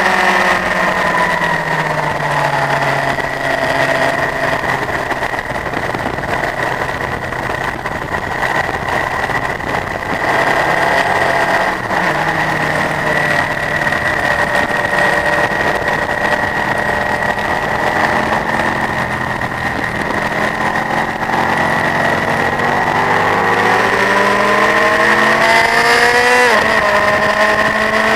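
Honda CBF1000's inline-four engine heard onboard at speed on a track. The engine note falls at first and holds fairly steady for a long stretch, then climbs and drops sharply about 26 seconds in, as at a gear change, before climbing again. A steady high whine runs alongside throughout.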